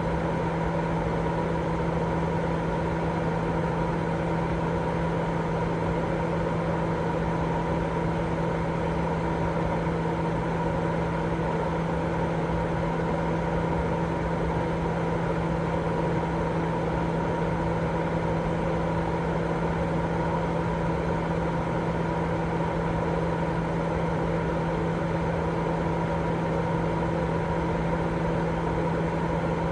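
Continuous steady white noise for baby sleep: an even rushing hiss, darker in the highs, with a steady low hum running through it and no change at all.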